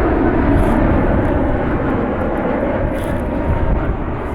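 Jet engines of an Airbus airliner passing close, a loud, steady rush of engine noise that eases slightly near the end.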